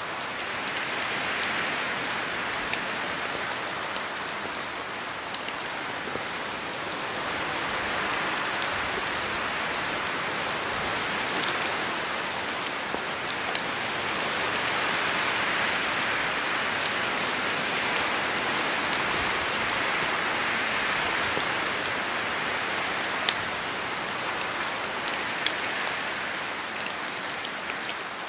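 Steady rain with wind: an even hiss of falling rain, broken by scattered sharp drop ticks, swelling and easing slowly in loudness.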